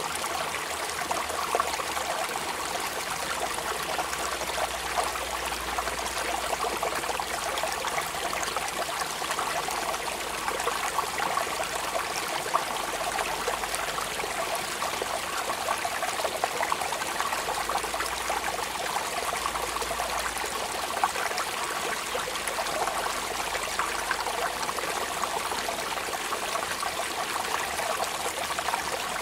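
Steady rain falling: an even hiss made of many small drop impacts, unchanging throughout.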